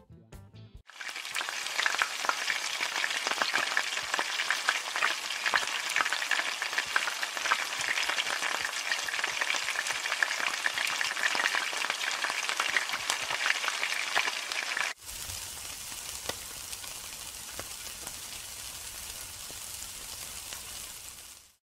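Hot oil crackling and sizzling hard as food deep-fries in a wok over open flame, starting about a second in. About fifteen seconds in it cuts to a quieter, steadier sizzle with a low rumble underneath, from skewered meat grilling over charcoal.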